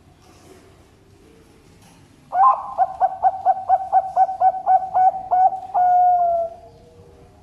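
Zebra dove (Bangkok perkutut) singing one full song phrase: a fast run of about a dozen short coos, then one longer final note that falls slightly and fades.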